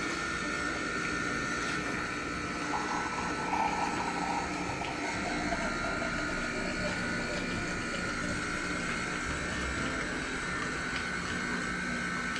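Jura Z10 automatic coffee machine running steadily, a constant machine hum with a sound of liquid being pumped.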